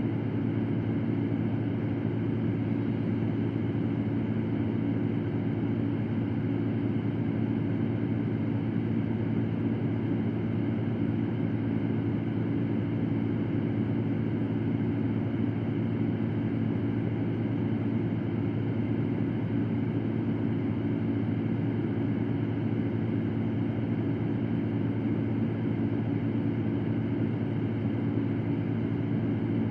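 Electric fan running steadily: a constant airy whoosh with a low, unchanging hum under it, used as white noise for sleep.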